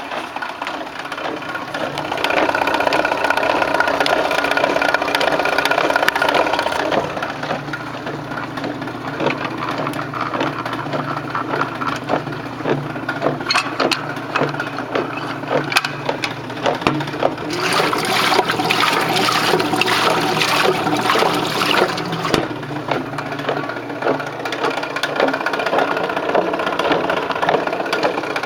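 1928 Maytag wringer washer running on an antique GE 1/4 hp electric motor: a steady motor hum under the rattle and clatter of the drive gearing, with the agitator swishing water, louder twice.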